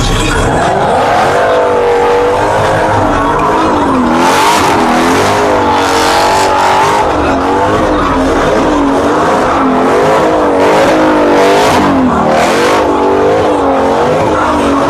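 A car engine revving up and down again and again, with its tyres screeching in several bursts as the car slides.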